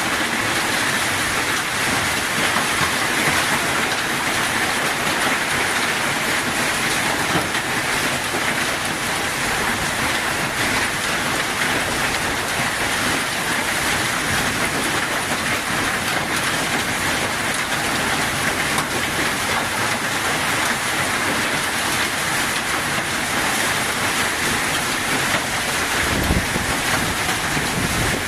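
Heavy rain falling, a dense steady hiss with no let-up. A brief low thump comes near the end.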